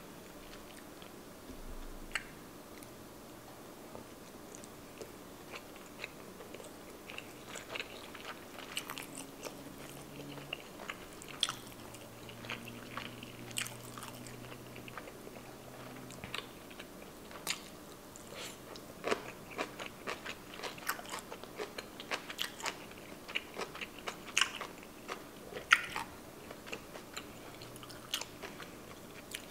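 Close-miked chewing of a mouthful of tuna nigiri sushi: soft wet mouth smacks and small clicks, irregular and spread through the whole stretch.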